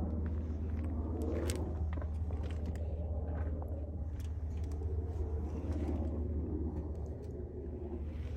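Car driving at a steady pace: an even low engine and road drone, with a few faint clicks.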